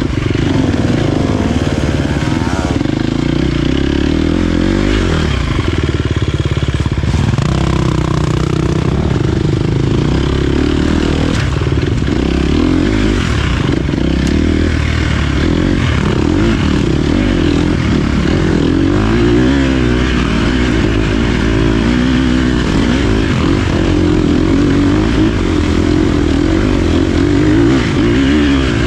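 Dirt bike engine being ridden hard, its pitch rising and falling continually as the throttle is opened and closed.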